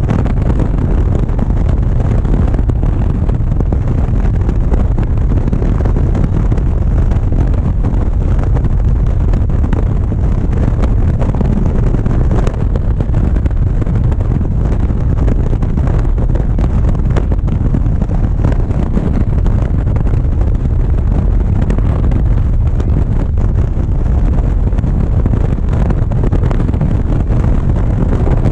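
Wind buffeting a GoPro microphone on a moving motorcycle, a loud, steady, low rumble with the road and engine noise mixed in beneath it.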